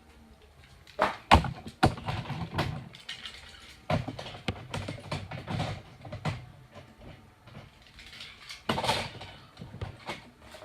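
Irregular knocks and clicks with rustling clatter, like hard objects being handled; the loudest knocks come about a second and a half in.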